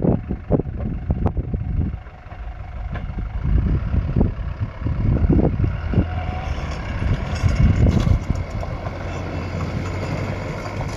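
Heavy vehicle engine running steadily, with gusts of wind buffeting the microphone.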